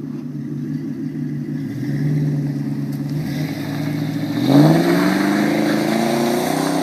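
Ford Crown Victoria Police Interceptor's 4.6-litre V8 running through Flowmaster 40 series mufflers: a steady exhaust note, then the throttle is opened about four and a half seconds in and the note rises steadily in pitch.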